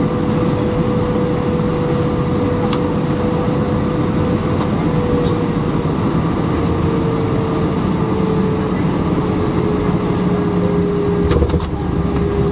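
Airbus A319 airliner cabin noise: steady engine and airflow rumble with a held whine that sinks slightly in pitch, a few faint clicks, and a brief low rumble swell near the end.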